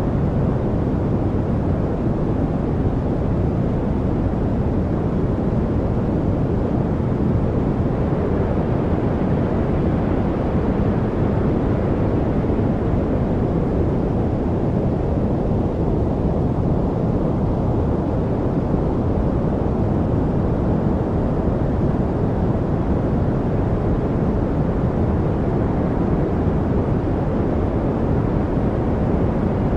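Steady, deep rushing noise like a low rumble, strongest in the lows, with no separate events; the top of it thins a little in the middle and fills back out near the end.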